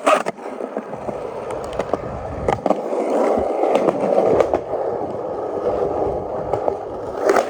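Skateboard rolling with a steady wheel rumble, broken by a few sharp clacks of the board and trucks.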